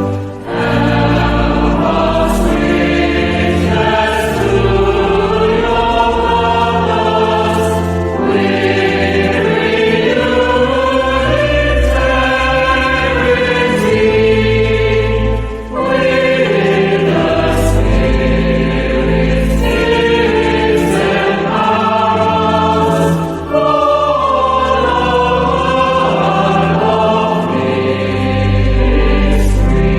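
Choir singing a hymn with sustained accompaniment, phrases separated by brief breaths.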